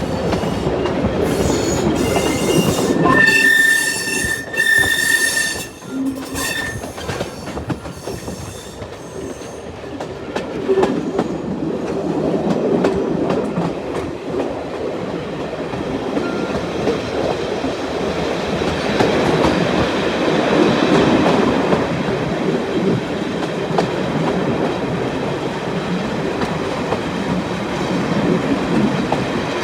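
Train wheels squealing shrilly against the rails for several seconds, with clicks, then the steady rumble and clatter of the train running along the line.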